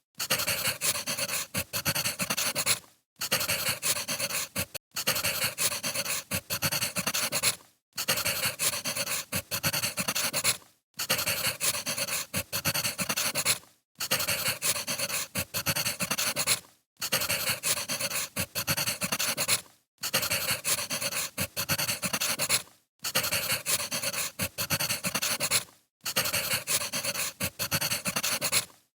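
Crackling wood fire: a dense run of small pops and crackles, broken by short gaps of silence about every three seconds.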